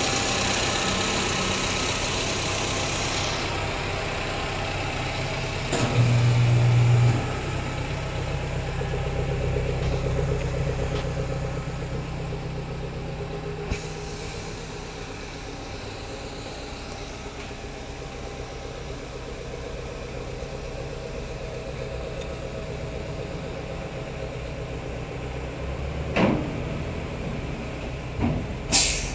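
CMC Veryca A180 van's 1.5-litre naturally aspirated engine idling steadily through a catless header and a low-volume mid-mounted single muffler. The low hum swells briefly about six seconds in, and a few sharp clicks come near the end.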